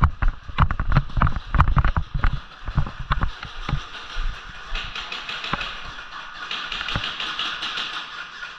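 Irregular sharp clicks and knocks typical of airsoft play: shots and plastic BBs striking hard surfaces. They come fast and loud for the first four seconds, then grow sparser and fainter over a steady hiss.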